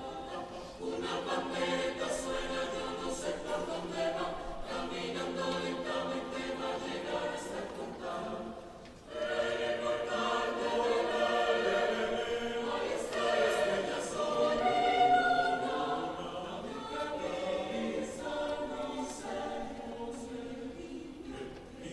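Vocal ensemble singing a cappella in several parts. Held chords break off briefly about nine seconds in, then come back louder before easing off toward the end.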